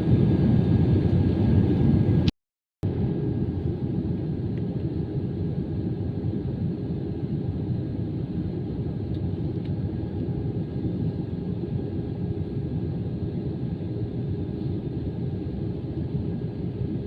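Airbus A320-214 cabin noise: a steady, deep rumble with a faint constant hum. It cuts out for about half a second a little over two seconds in, then carries on slightly quieter.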